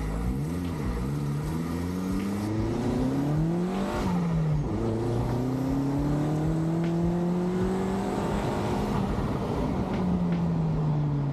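Vauxhall Astra VXR's tuned 2.0-litre turbocharged four-cylinder engine pulling under acceleration. Revs climb for about four seconds, drop at an upshift, climb more slowly, then fall away as it eases off near the end.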